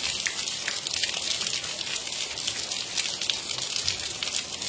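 Light, fine rain falling steadily: an even hiss dotted with many small drop ticks.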